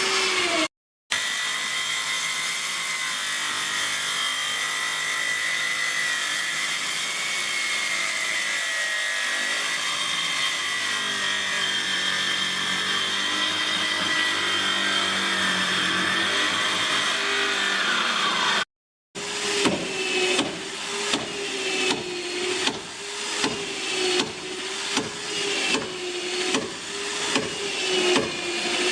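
Woodworking tools on boat timber. First a power tool runs steadily for most of the stretch. After a cut, tool strokes on wood repeat evenly at under two a second over a steady hum.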